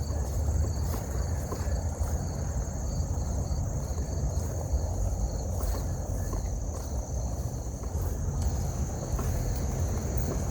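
Steady outdoor background: a low rumble, with insects droning on one constant high pitch.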